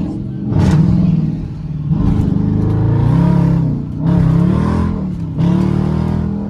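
Dodge Charger R/T's V8 engine accelerating in several pulls, its pitch climbing and dropping back again and again.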